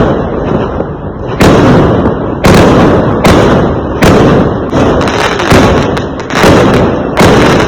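Fireworks going off in a rapid string of loud bangs, about one a second, each followed by a rumbling tail.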